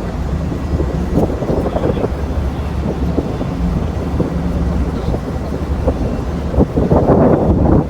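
Steady low engine drone with wind buffeting the microphone in gusts, heaviest near the end.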